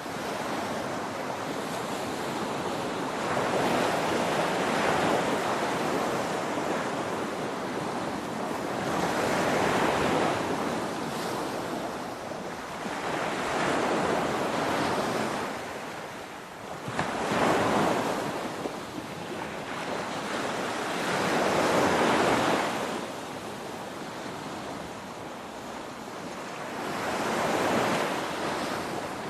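Ocean waves breaking on a shore: a continuous wash of surf that swells and recedes, with about six louder surges spaced four to five seconds apart.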